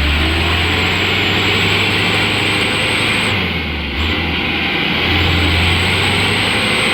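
A Mitsubishi Canter light truck's engine runs hard under load as the truck strains to climb out of where it has sunk on a slope. The engine eases off about three seconds in and picks up again near five seconds, with a steady hiss and a thin high whine over it.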